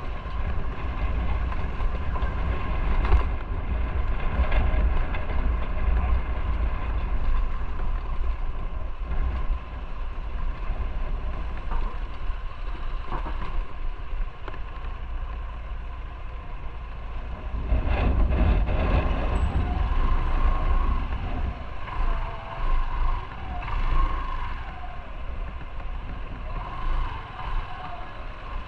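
Motorcycle riding at speed: the engine running under heavy wind rumble on the microphone, swelling louder about two-thirds of the way through.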